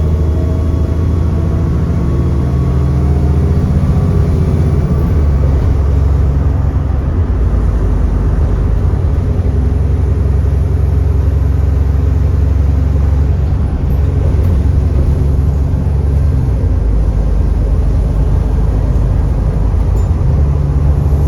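Alexander Dennis Enviro400 double-decker bus engine heard from on board, running steadily with a deep drone. The drone shifts in pitch a few seconds in and again near the end as the bus changes speed.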